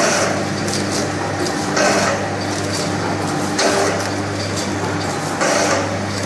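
Automatic back-seal tea packing machine (model 902) running: a steady motor hum with a short noisy clack repeating about every 1.8 seconds, one per bag cycle, about 32 bags a minute.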